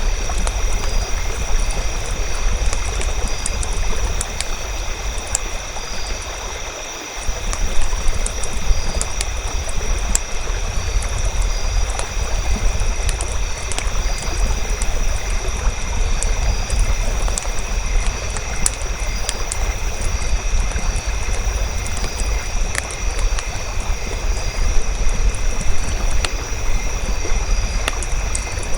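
Campfire crackling: scattered sharp pops and snaps over a steady rushing hiss and low rumble. The rumble fades briefly about six seconds in.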